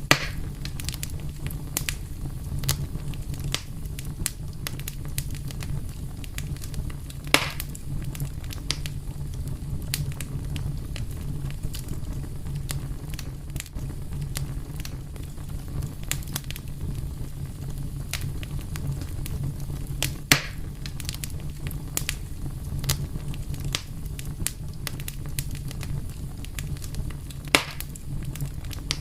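Fire crackling steadily with a low rumble of the flames, many small snaps and a few louder pops, about 7, 20 and 27 seconds in.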